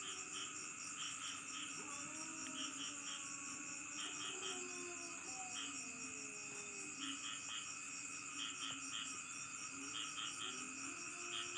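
Night chorus of crickets and other insects: steady high trilling, with short chirps in groups of two or three repeating throughout. Fainter, lower calls glide up and down underneath.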